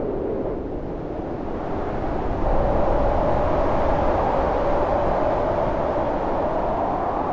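Storm wind howling steadily with a low rumble. About two and a half seconds in, a gust swells louder and the howl rises in pitch, then eases slightly.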